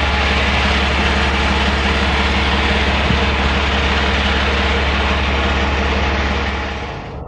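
Truck engine idling steadily, a deep hum under a wide hiss; the sound drops away abruptly near the end.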